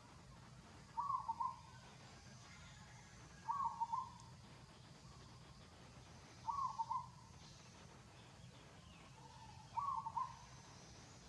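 A bird calling: a short phrase of a few quick cooing notes, repeated four times about every three seconds, over a faint steady low hum.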